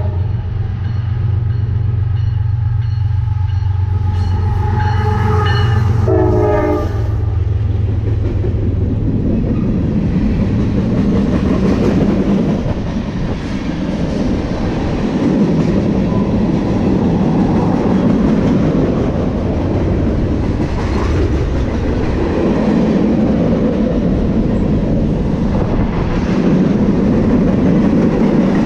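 Freight train locomotive sounding its multi-chime horn as it passes, the horn ending in short blasts about seven seconds in, with the heavy drone of the diesel engines. The locomotives give way to the long, continuous rumble and clickety-clack of freight cars rolling by.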